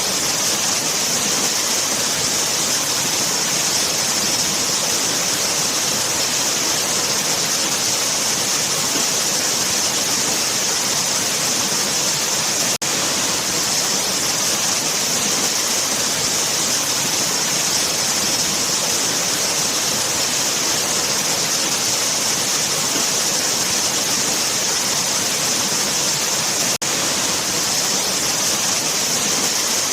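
Waterfall: a steady rush of falling water with a bright hiss on top, dropping out for an instant twice.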